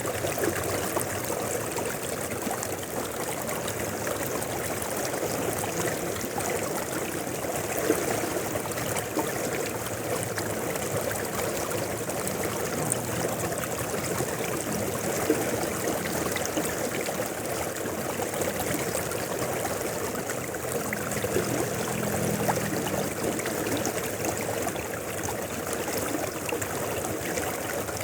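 River water flowing steadily, with small splashes and gurgles.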